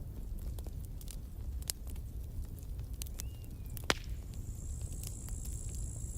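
Campfire burning: a steady low rumble of flames with scattered wood crackles and one sharper pop about four seconds in. Shortly after the pop, a thin high hiss sets in and holds through the rest.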